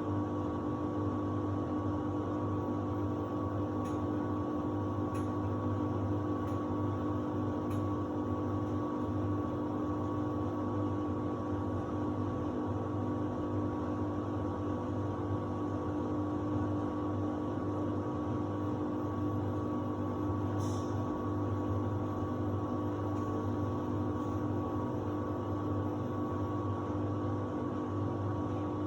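Samsung WD70T4047CE washer-dryer running with a steady hum, with a few faint ticks.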